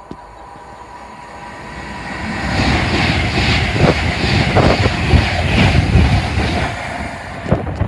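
Avanti West Coast Class 390 Pendolino electric train passing through the station at speed. Its rush builds from about two seconds in, carries a regular wheel clatter about twice a second, and falls away sharply near the end.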